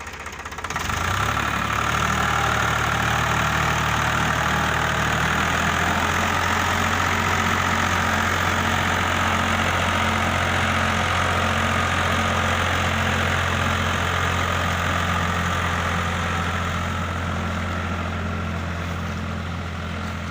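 Tractor diesel engine revving up about a second in, then running hard and steady at high revs, typical of a tractor straining to pull a stuck trolley out of mud.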